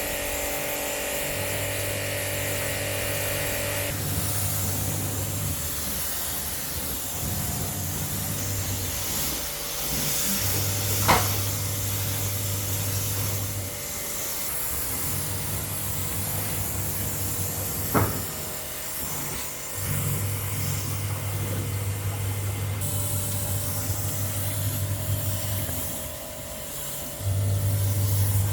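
Electric pressure-washer pump humming in spells of a few seconds, stopping and restarting several times as water is sprayed, over a steady spray hiss. Two sharp clicks stand out, one a little before the middle and one just past it.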